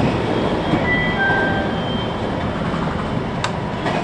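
Running noise inside a 521 series electric multiple unit: a steady rumble of wheels on rail. A few faint high steady tones sound between about one and two seconds in, and a sharp click comes near the end.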